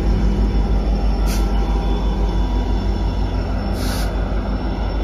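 Norfolk Southern track geometry train going by: a steady low rumble under a diesel engine's hum, with two short hisses, one about a second in and one near four seconds.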